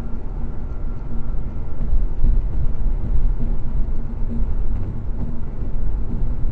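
Steady low rumble of a vehicle driving, as picked up by a dash camera, with no impact or crash sound.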